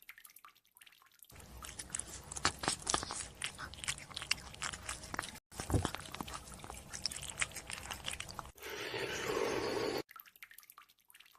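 Close-up wet, crunchy chewing: a rapid run of smacking and crunching mouth noises, broken once by a brief cut. About eight and a half seconds in, a second and a half of steady rushing noise replaces it, then faint mouth clicks return near the end.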